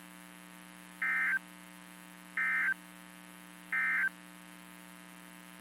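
Three short bursts of NOAA Weather Radio SAME digital data tones, evenly spaced about a second and a half apart: the end-of-message code that closes the warning broadcast. A steady electrical hum from the radio runs underneath.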